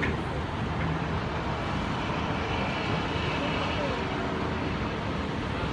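Steady outdoor rumble with faint voices in the background.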